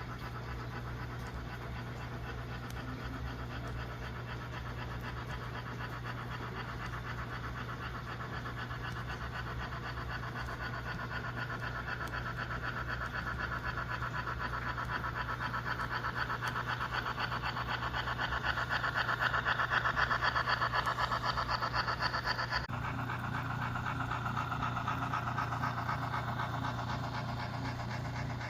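HO scale model of a Pennsylvania Railroad HH1 2-8-8-2 Mallet steam locomotive running, with rapid, even steam chuffs over a steady low hum. The chuffing grows louder towards about two-thirds of the way through, then changes abruptly a few seconds later.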